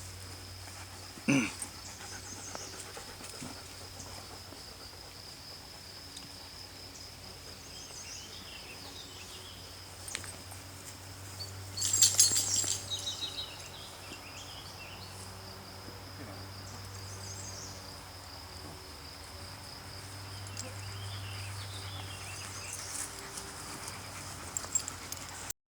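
A steady high-pitched insect drone, with a brief sharp noise about a second in and a louder burst of clattering around twelve seconds in.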